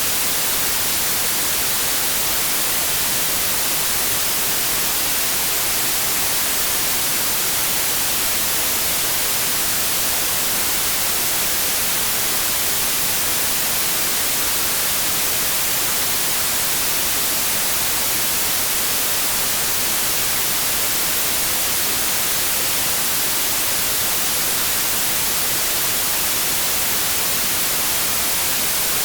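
White noise: a steady, even hiss of static, unchanging throughout.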